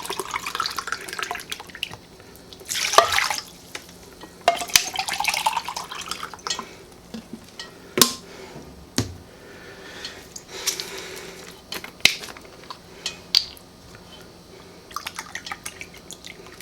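Water poured in several spells, filling a tin can (its pitch rising as it fills) and splashing out of it, with a few sharp metal clinks of the can in between.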